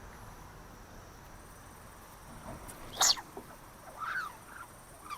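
Animal calls: three short calls that slide down in pitch, the first about three seconds in, sharp and the loudest, then two fainter ones about a second apart.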